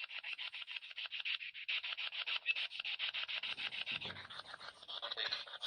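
An EVP ghost box scanning through radio frequencies, giving a fast chopped static hiss of about ten pulses a second.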